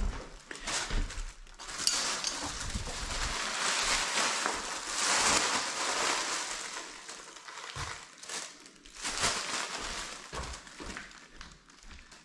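Rustling and crinkling handling noise, loudest in the first half and again briefly near three-quarters through, then trailing off.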